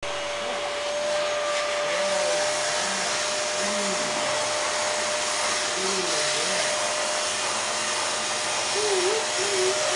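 Vacuum cleaner running steadily, a rushing noise with one steady tone in it, being used to groom a cat's fur.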